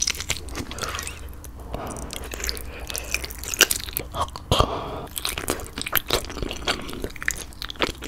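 Close-miked biting and chewing of a piece of braised spicy chicken: wet mouth sounds broken by irregular sharp clicks.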